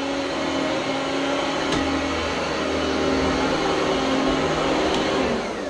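Oreck Elevate Conquer upright vacuum cleaner's motor running steadily. Near the end it is switched off and the motor begins to spin down with a falling whine.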